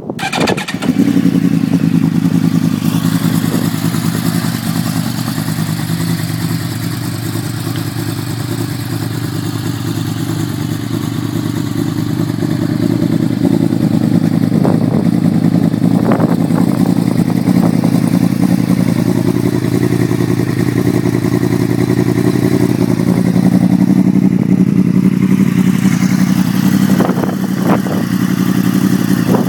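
Yamaha R1's crossplane inline-four, breathing through a Competition Werkes stainless slip-on exhaust, fires up right at the start and settles into a steady idle.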